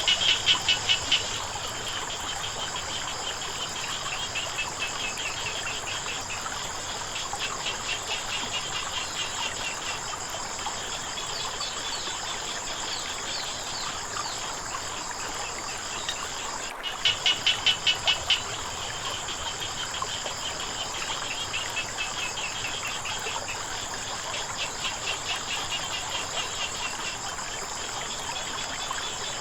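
Chorus of frogs and insects calling, a steady high trill with two short runs of rapid, louder pulsed frog croaks, one at the start and one about 17 seconds in, over a soft trickle of flowing water.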